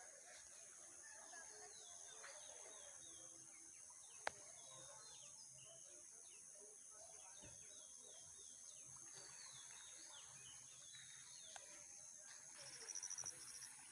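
Faint outdoor ambience with scattered short bird chirps over a steady high insect hum. There is one sharp click about four seconds in, and near the end a rapid pulsing insect chirp starts up.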